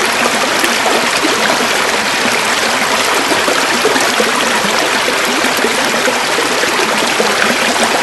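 River water running over stones, a steady, busy rushing with fine splashing and gurgling.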